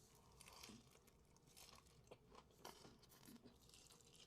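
Faint, irregular chewing of sushi, with soft wet mouth clicks.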